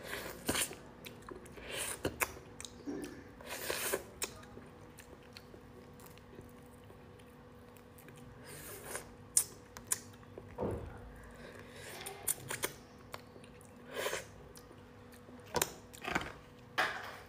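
Close-up eating of a cooked starfish: chewing and biting with small crunches and crackles at irregular intervals, and a quieter stretch near the middle.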